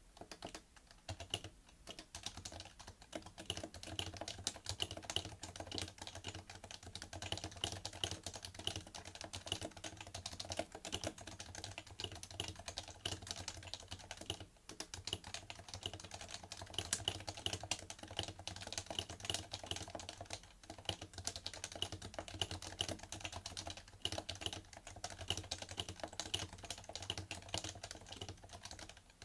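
Continuous fast typing on a PFU Happy Hacking Keyboard Professional2, its Topre capacitive key switches giving a dense run of soft clacks with a low thud into the desk. The typing pauses briefly twice, about halfway through and again a few seconds later.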